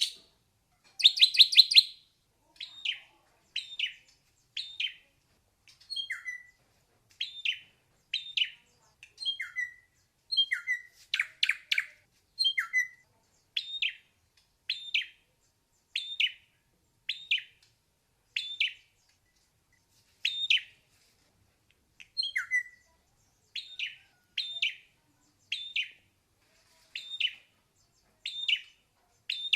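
Ashy drongo singing: short separate notes, roughly one or two a second, some hooking down in pitch, with a louder quick run of notes about a second in and another about halfway.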